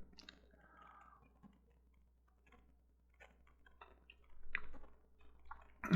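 Faint, scattered clicks of a computer mouse and keyboard, with a brief, slightly louder cluster of clicks about four and a half seconds in.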